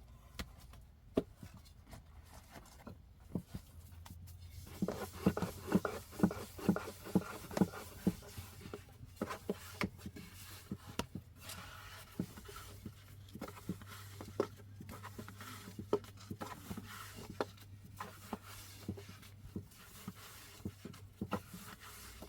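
Scattered knocks and taps from hands-on food preparation, with a quick run of about four strikes a second between about five and eight seconds in, over a low steady hum.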